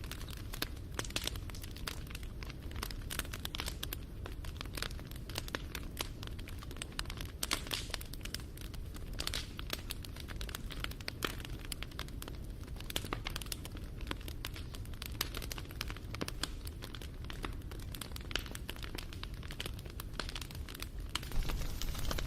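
Wood fire crackling and popping in quick, irregular snaps over a low, steady rumble of burning, growing louder near the end.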